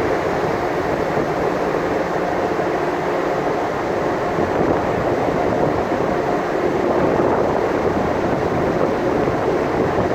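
Steady noise of a ship underway at sea, with no breaks or sudden events.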